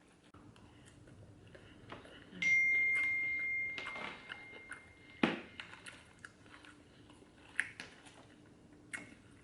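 A single clear ringing tone, struck about two seconds in and fading over about three seconds, ending at a sharp click. Soft clicks and small crunches of eating come before and after it.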